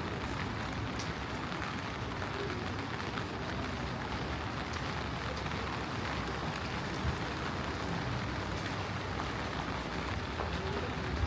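Steady rain falling on the street, an even hiss with scattered light drip ticks and a low rumble underneath.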